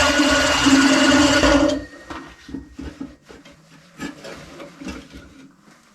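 Electric drill running as it bores holes in steel tong blanks, cutting off about two seconds in, followed by light clicks and knocks of the workpiece and drill being handled.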